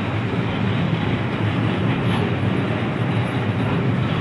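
Freight train of covered sliding-wall wagons rolling past at close range: a steady noise of steel wheels running on the rails.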